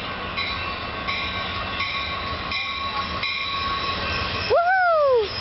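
Caltrain commuter train of gallery cars passing close by: a steady rolling rumble with a regular beat about every 0.7 s. Near the end a loud whooping 'woo' shout rises and falls in pitch.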